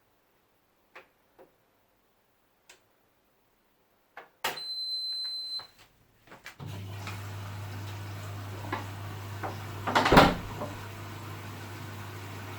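A click and one long electronic beep, then an appliance starts and runs with a steady low hum, with a brief clatter about ten seconds in.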